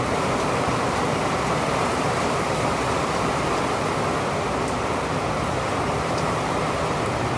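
Steady rain, an even unbroken hiss with a few faint ticks.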